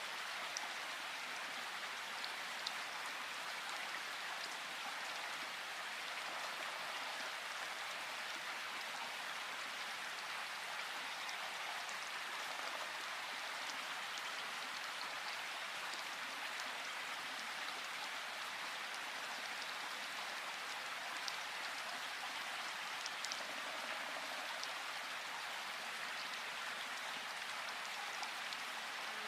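Steady rain falling in a forest, a constant hiss with scattered single drops ticking through it.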